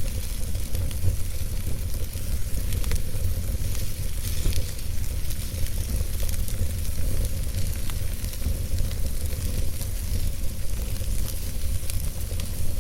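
Wood fire burning in a fireplace: a steady low rumble of the flames under hiss, with frequent small crackles and pops from the burning logs.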